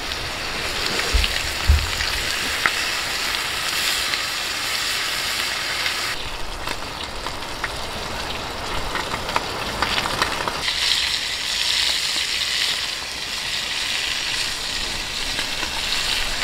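Meat frying in a pan over a campfire: a steady sizzle with small scattered pops, and a couple of dull knocks about a second in.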